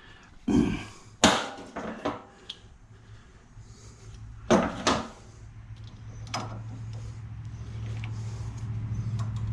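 Hand tools and metal scrap parts knocking and clicking as a piece is worked apart, several sharp knocks in the first half. A low steady hum builds up through the second half.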